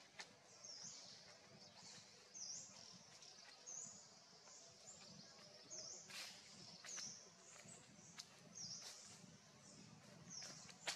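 Faint outdoor ambience with a small bird repeating a short high chirp about once a second, and a sharp click about six seconds in.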